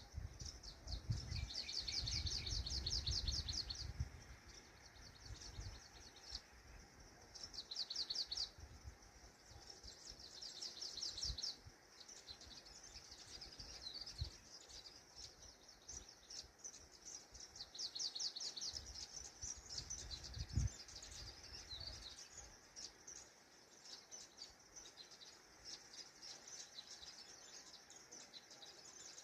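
Birds singing: a songbird repeats phrases of rapid, high-pitched trills every few seconds, with scattered chirps between them. A low rumble comes in at the start and again about two-thirds of the way through.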